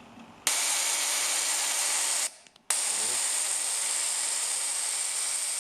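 Low-voltage erosion-type (surface-discharge) gas-turbine igniter sparking continuously across its semiconductor surface, a steady high hiss that starts about half a second in, cuts out briefly a little after two seconds, then starts again.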